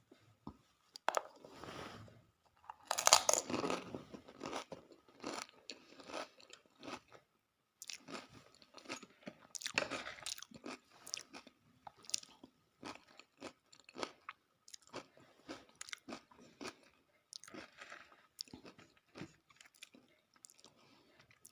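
A person chewing mouthfuls of dahi puri: the crisp puri shells and crunchy bhuja crunch in a run of short, irregular bites, with a denser burst of crunching about three seconds in and again about ten seconds in.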